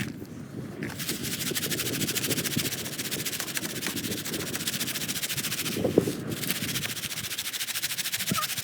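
Popcorn pan shaken over a campfire: a fast, steady, rhythmic rattle.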